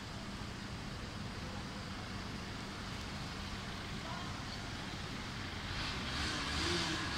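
Heavy rainstorm with wind: a steady rushing hiss of rain, swelling louder for about a second near the end.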